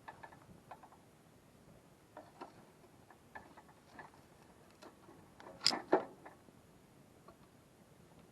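Wood campfire crackling: scattered small snaps, with two louder pops close together a little past the middle.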